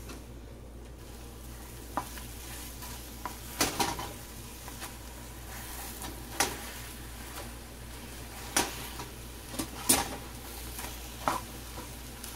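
Beaten eggs sizzling in hot oil in a flat frying pan while a spatula stirs and breaks them up, with scattered sharp taps and scrapes of the spatula against the pan.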